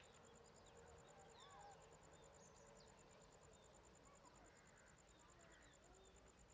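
Near silence: faint rural ambience with scattered bird chirps and a steady, high pulsing insect trill.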